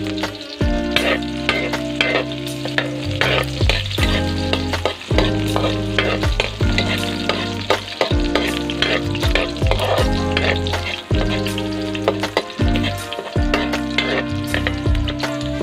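Chicken frying and sizzling in a pan while it is stirred, with scraping and clicks of the utensil throughout, over background music with held bass notes.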